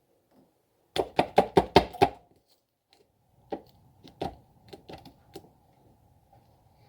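A quick run of about seven sharp clicks or knocks, followed by a few fainter scattered ones.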